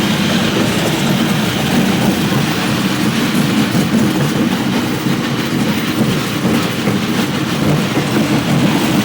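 High-speed train in motion: a steady low running noise that holds even throughout.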